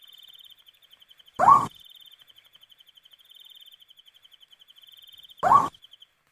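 Owl calling: two short, loud calls about four seconds apart. Behind them runs a steady pulsing insect trill, which stops shortly before the end.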